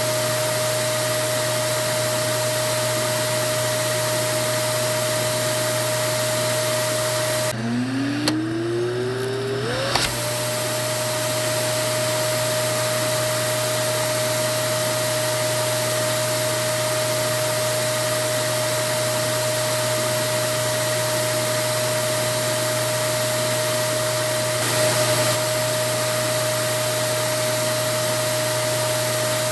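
Vacuum cleaner running steadily: an even rushing hiss with a steady motor whine. About seven seconds in the sound breaks off, and the motor whine climbs in pitch as it spins back up over two or three seconds before settling again.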